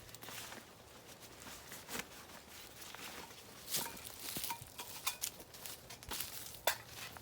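Rustling and crackling in dry leaf litter and twigs, with irregular sharp snaps, the loudest about two thirds of the way through.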